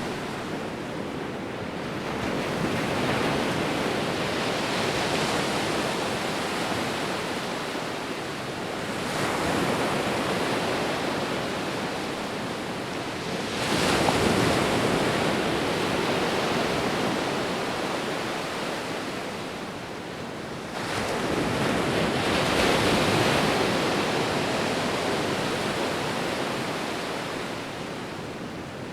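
Sea waves breaking and washing on a shore in a steady cycle, about four swells, each surge rising and then fading away as the water draws back.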